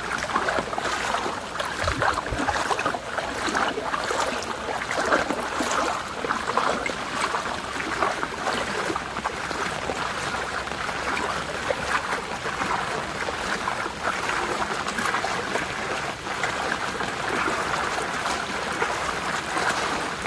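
Floodwater flowing: a steady rush of moving water with small splashes throughout.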